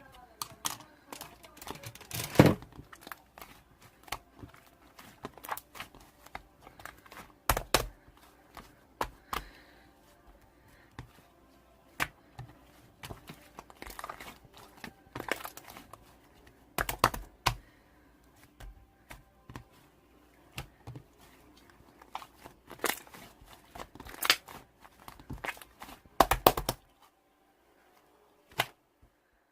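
Handling noises: irregular taps, clicks and crinkling rustles, with a few louder knocks scattered through.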